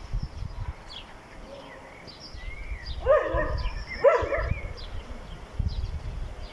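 An animal calls twice, about a second apart, over scattered high chirps and a low wind-like rumble.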